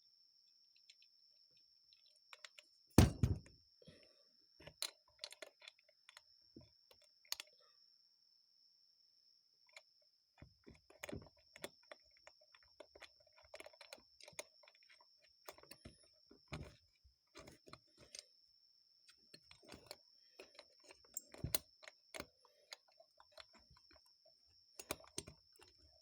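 Small metal carburetor parts clicking and clattering as they are handled and fitted together by hand, with a sharp knock about three seconds in.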